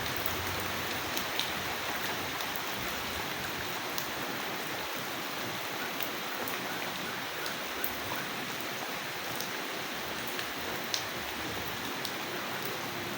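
Steady rain falling, with scattered single drops ticking sharply now and then, about a dozen over the span.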